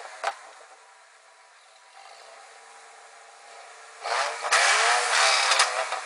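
1995 Jeep Grand Cherokee's inline-six engine through a Flowmaster Super 44 exhaust, idling, then revved once about four seconds in, its pitch rising and falling back over about two seconds.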